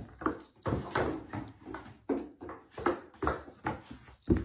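A dog making quick, repeated excited vocal sounds, about two a second, while waiting for play to start.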